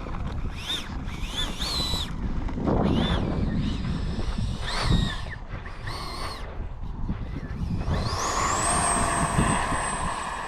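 Electric ducted-fan motors of a Freewing F-22 Raptor 70mm RC jet whining, with several short rises and falls in pitch. About eight seconds in they spool up quickly to a steady, high-pitched whine at high throttle, typical of the takeoff run.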